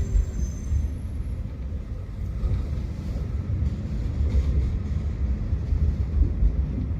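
Tram running with a steady low rumble.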